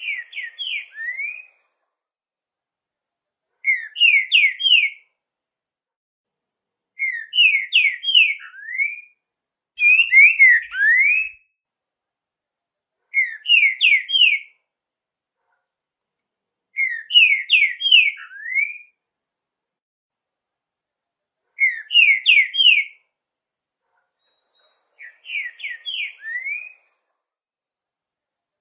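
A songbird singing short phrases of three to six quick, sweeping whistled notes, repeated eight times with a pause of a few seconds between phrases.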